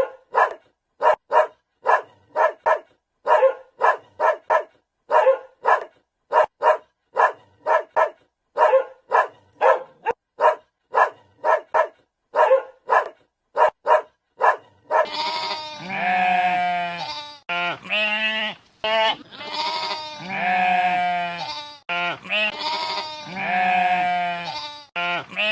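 A dog barking in quick runs of two or three short barks for about the first fifteen seconds, then a goat bleating: long, wavering calls of about a second each, repeated with short gaps.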